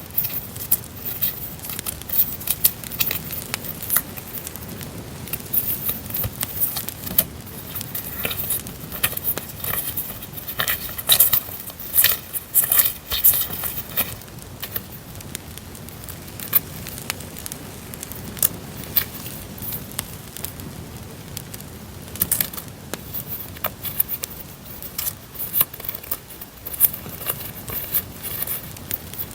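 Campfire crackling: a steady run of sharp pops and snaps over a low rumble of burning wood, laid in as a background track.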